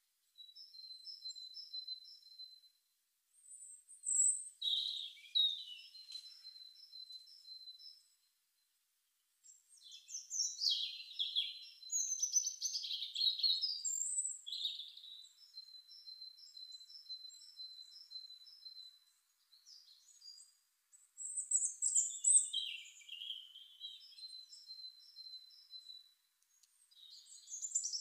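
Songbirds singing: thin, high, evenly repeated notes in series, broken now and then by louder warbling phrases.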